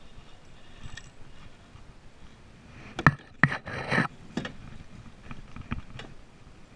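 Handling noises in a fishing kayak: a cluster of sharp knocks and clatters about three seconds in, with a short rushing noise between them, then a few lighter clicks.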